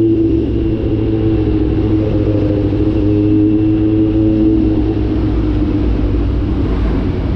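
Kawasaki Z900 inline-four with the catalytic converter deleted, running under way at a fairly steady engine speed over a strong low rumble. Its steady note weakens for a couple of seconds in the second half.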